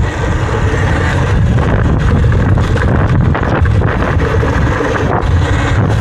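Heavy wind buffeting the microphone: a loud, steady low rumble with a rushing hiss above it.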